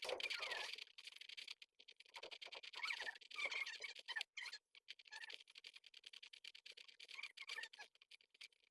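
Baby pigeons (squabs) squeaking in short, thin high peeps on and off, with light scratching and clicking in the nest.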